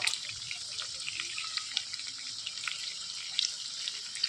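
Pork frying in hot oil in a pan: a steady sizzle with many small scattered pops.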